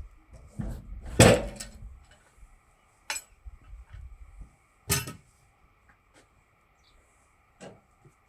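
Separate metallic clanks and knocks as a log is turned a quarter on a portable bandsaw mill's bed. The loudest comes about a second in and rings briefly, others follow near three and five seconds, and a lighter one comes near the end.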